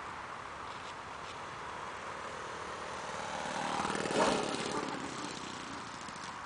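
Radio-controlled model airplane flying past: its engine sound swells to a peak about four seconds in, then fades away.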